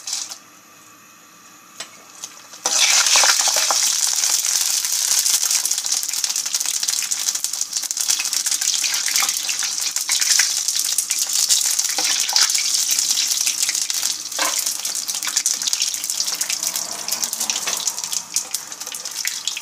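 Dried macaroni frying in hot cooking oil in a pan: a short crackle at the very start, then a steady, loud sizzle from about three seconds in as more pasta goes into the oil. A metal ladle stirring the pasta knocks against the pan now and then.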